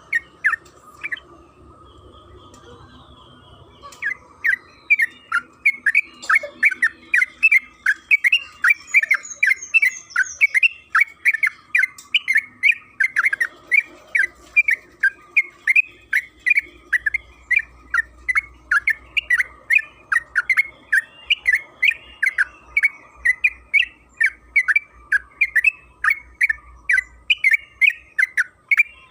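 Yellow-vented bulbul (trucukan) singing a long, unbroken run of short, loud chirping notes, about three a second. The song starts after a brief pause a few seconds in.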